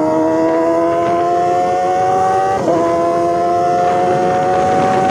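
Kawasaki ZX-25R's inline-four through an SC Project aftermarket exhaust, pulling up through the revs under acceleration. About halfway through the pitch drops sharply and starts climbing again, as at an upshift.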